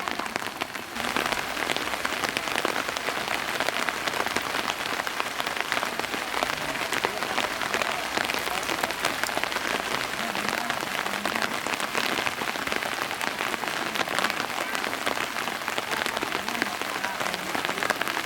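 Steady rain, a dense patter of drops striking a surface, growing louder about a second in and then holding steady.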